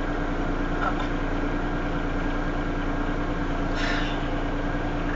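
An engine idling: a steady, even hum with a constant low drone.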